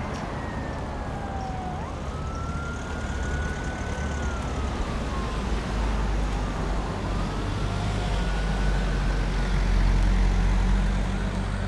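Emergency vehicle siren wailing in slow rising and falling sweeps, over the rumble of road traffic that grows louder toward the end.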